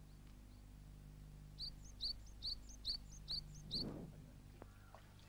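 A bird repeating a short rising chirp about twice a second, faint at first and louder for six notes from about a second and a half in. A steady low hum lies underneath, and a brief low noise comes near the end.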